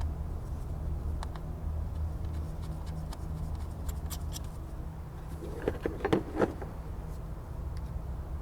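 Light clicks of parts being handled and fitted in a car's engine bay, with a short cluster of louder knocks about six seconds in, over a steady low hum.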